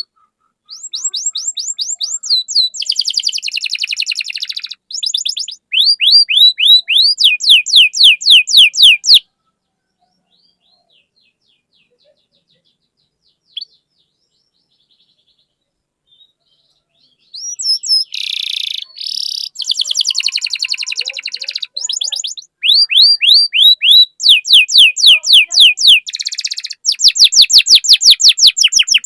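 Domestic canary singing in fast trills of rapidly repeated, down-slurred high chirps. One song bout about a second in, an eight-second pause, then the song starts again and runs on.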